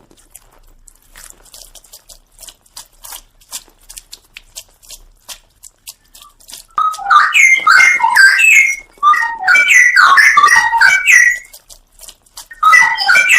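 Straw-headed bulbul (cucak rowo) singing loud, bubbling, warbled song phrases in three bursts with short pauses between them. Before the song, for several seconds, there are only faint scattered clicks.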